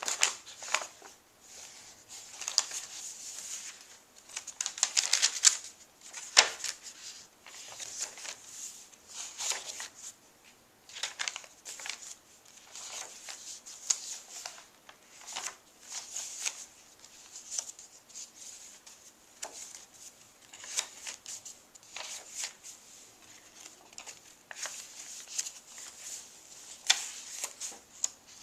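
Paper pages of a handmade journal being turned and handled, rustling in short swishes every second or two.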